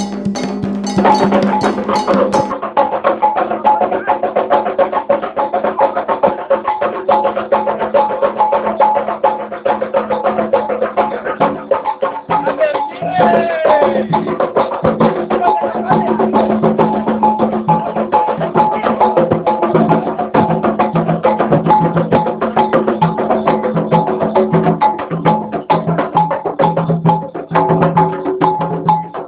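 Afro-Brazilian religious percussion music: drums and a clacking percussion instrument keep up a dense, fast, unbroken rhythm, with voices over it.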